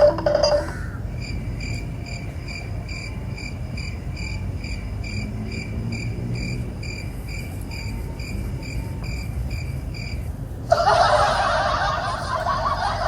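A high, evenly repeated chirp, about two a second, over a low steady rumble; near the end it stops and a snickering laugh sets in.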